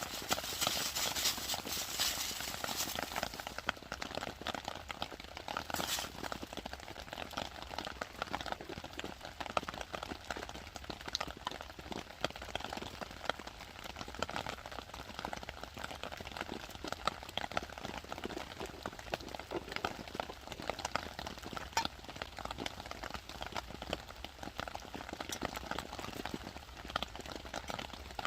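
Heavy rain pattering steadily on a shelter overhead, a dense run of small drips and taps. A brighter rustling hiss in the first few seconds and a single sharp tap about six seconds in.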